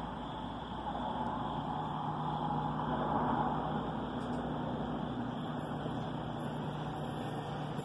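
Distant Stadler GTW diesel multiple unit approaching the station: a steady rumble with a low engine hum. Faint high-pitched squeals come in over the last few seconds.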